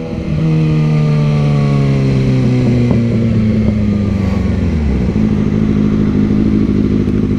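Motorcycle engine slowing, its note falling steadily for about five seconds, then settling into an even, lower running note.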